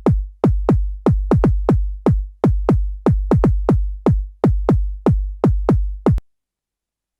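Synthesized electronic kick drum made in Ableton's Operator synth, played in a quick, uneven pattern of hits: each a short click with a pitch that drops fast into a deep boom. The hits stop about six seconds in.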